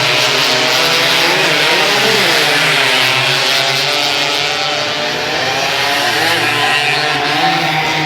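Racing motorcycle engines running hard, their pitch rising and falling with the throttle.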